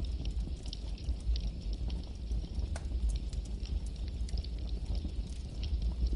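Campfire burning, with a steady low rumble of the flames and frequent small, irregular crackles and pops of the burning wood.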